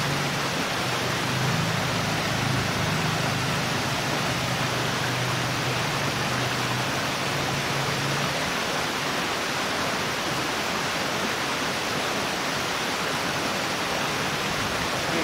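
Steady rushing water noise, with a low hum underneath that fades out about eight seconds in.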